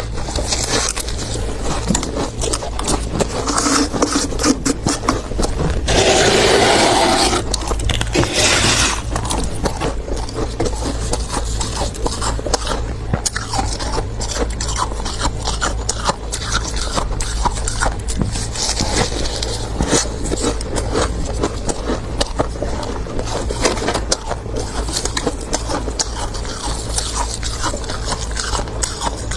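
Thick freezer frost being scraped, a dense run of scratchy, crackling strokes, with a louder rush about six seconds in and another near nine seconds.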